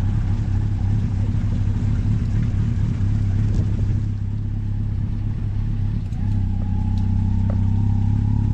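A vehicle's engine running steadily as it travels, a low even drone. A faint higher whine joins about six seconds in.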